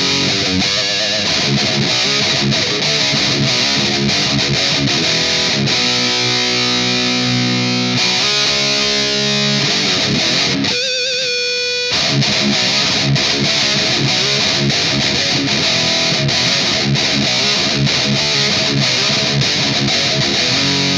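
Distorted electric guitar playing a heavy metal riff. About six seconds in, chords are left ringing for a couple of seconds. Around the middle, a single held note wavers with vibrato before the fast riffing picks up again.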